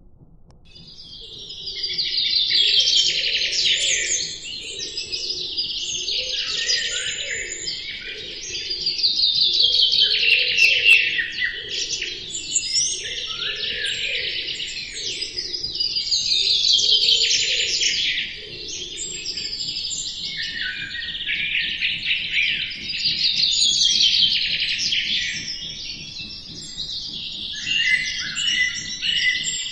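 Many small birds chirping and trilling together in a dense chorus, starting about a second in and swelling and easing roughly every seven seconds.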